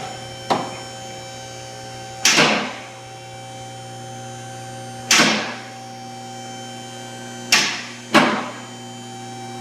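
Electric hoist motor switched on and running with a steady hum as it lifts a pickup truck's cab off its frame, with five sudden loud knocks spread through it.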